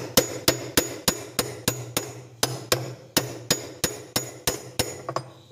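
A hammer striking a 36 mm spanner about three times a second, a steady run of about eighteen sharp metallic blows that stops shortly before the end, tightening the washing machine drum's 36 mm nut.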